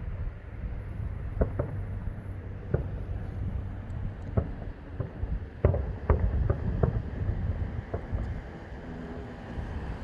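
Distant aerial fireworks bursting in an irregular run of bangs and pops, several close together, the loudest about five and a half seconds in, over a steady low rumble.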